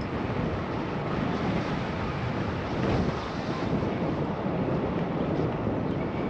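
Steady wind rushing over the microphone of a bicycle-mounted action camera while riding.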